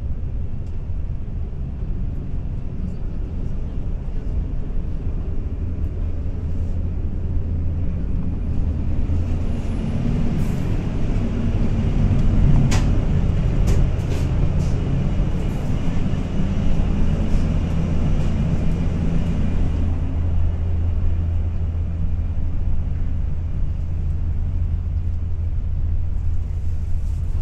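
Shinkansen bullet train running at speed, heard inside the cars: a steady low rumble. For several seconds in the middle, while passing through the vestibule between cars, it grows louder and rougher, with a few sharp clicks.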